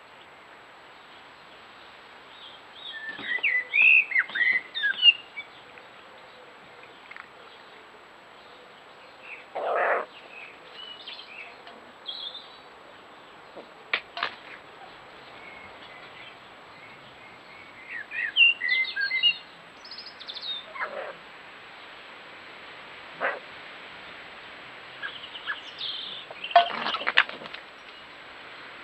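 Birds chirping and twittering in short bursts, three main clusters of calls, with a few brief sharp sounds in between over a faint steady hiss.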